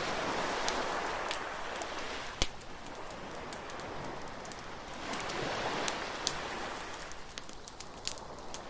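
Beach bonfire crackling, with scattered sharp pops and one loud pop a little over two seconds in. Behind it, surf washes in twice as a swelling hiss, near the start and again about halfway through.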